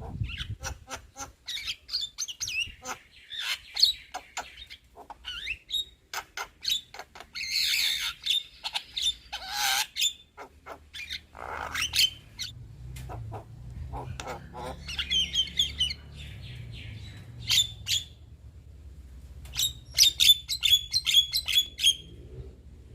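Young Javan myna singing: a busy, chattering jumble of harsh squawks, clicks and whistled notes, ending in a quick run of repeated notes.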